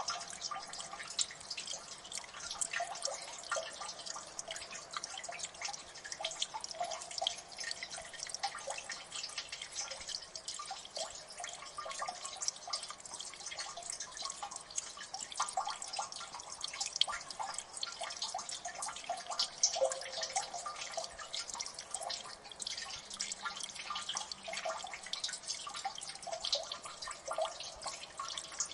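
Water dripping steadily into a gully, many irregular plinks and ticks overlapping.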